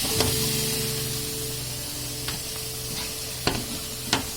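Onion-tomato masala sizzling in a hot pan, with a handful of sharp spoon knocks against metal as it is stirred and scraped.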